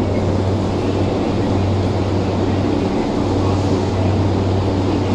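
Electric commuter train standing at a station platform with its doors open, its equipment giving a steady low hum over the general bustle of the platform.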